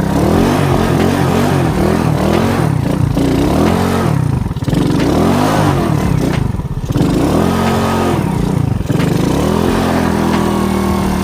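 Alpha moped's single-cylinder four-stroke engine revving up and down again and again under load as it tries to push through mud, with brief drops about four and a half and six and a half seconds in. The rear wheel is spinning and clogging in the mud, and the moped is bogging down.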